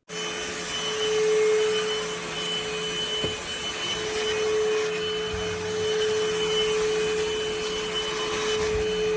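SVHT V15 cordless stick vacuum running steadily: a rushing air noise with a steady motor whine, cutting in abruptly.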